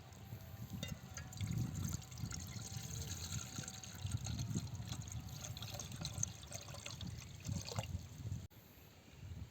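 Water pouring and trickling with irregular splashing, cutting off abruptly near the end.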